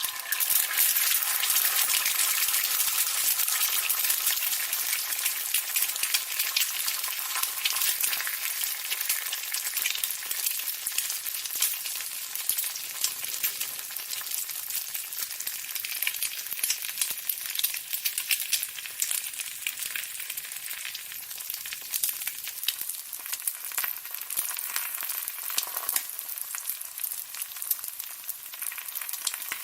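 Steady sizzling crackle: a dense hiss full of small sharp pops. It starts abruptly and eases off a little after about ten seconds.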